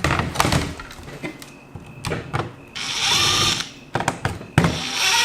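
Small electric screwdriver whirring in short runs as it backs screws out of a laptop's bottom case: one run of about a second near the middle and another starting near the end, with light clicks and knocks of handling the case before them.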